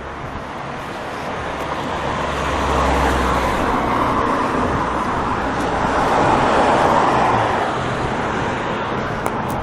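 Road traffic: motor vehicles passing on a street, a noise that swells over a few seconds and eases off again, with a low engine hum about two to four seconds in.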